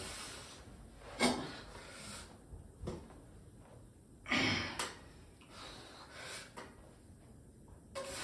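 A person breathing hard in sharp, separate exhales and gasps, the loudest about halfway through, as from the strain of a heavy bench-press set. There are a couple of short knocks as well.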